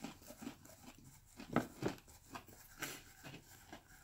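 Close-up eating sounds: a person chewing breaded chicken tenders, with irregular soft crunches and mouth clicks.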